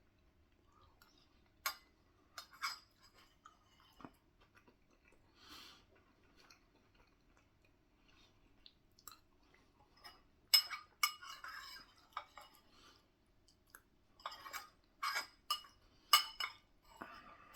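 Cutlery clinking and scraping against a dish while someone eats curry, with quiet chewing between. Sharp clinks come in small clusters, the loudest about ten and sixteen seconds in.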